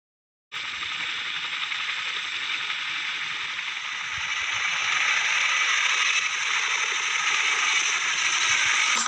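Helicopter running: a dense, steady mechanical noise with a rapid fine rattle in it. It cuts in abruptly about half a second in and grows louder about halfway through.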